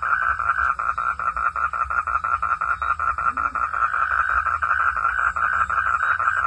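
Frogs calling in a dense chorus: a fast, steady train of pulsed croaks, several a second, without a break.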